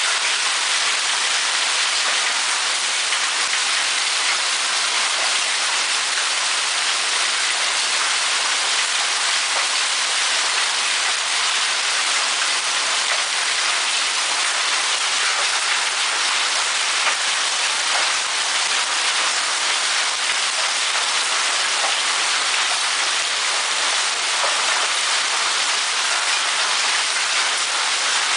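Hail and heavy rain pelting down in a hailstorm: a steady, dense hiss of falling ice and water, peppered with many small sharp hits.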